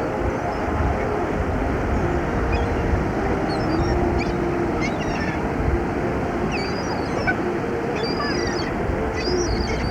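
Seagulls calling in short, high squawks over a steady rush of wind and surf noise, the calls coming more often in the second half.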